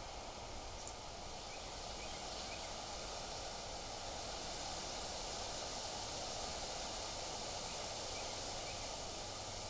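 Steady wind noise outdoors, with a few faint short bird chirps: three close together in the first three seconds and two more near the end.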